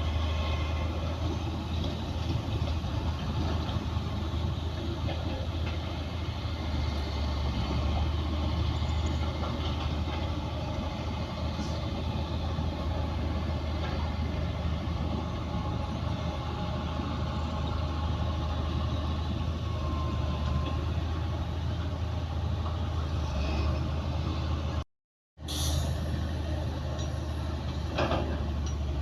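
Heavy diesel earthmoving machinery running steadily with a deep engine hum. It cuts out abruptly for a moment near the end, then resumes with a few clanks.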